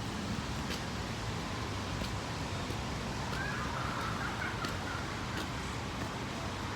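Steady noise of strong wind and rain along a city street with traffic, with scattered light ticks. About halfway through, a short warbling, higher-pitched sound rises above it for a second or two.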